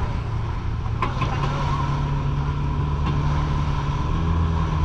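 Parasail tow boat's engine running steadily, its pitch stepping up slightly about a second in and again near the end.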